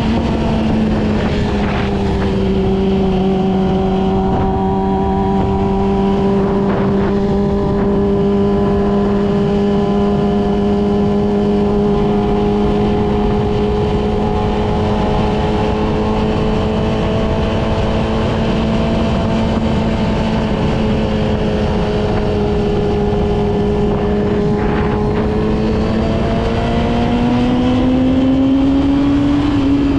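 Yamaha R6's inline-four engine heard on board while cruising at a steady, fairly low speed, over a constant rush of noise. The engine note eases slightly about a second in, holds steady for a long stretch, then rises briefly near the end before dropping back.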